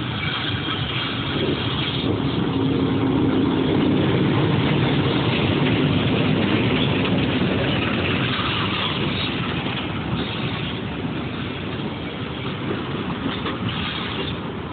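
Diesel locomotive hauling a passenger train into the station, its engine noise growing to its loudest about four to six seconds in and then easing off.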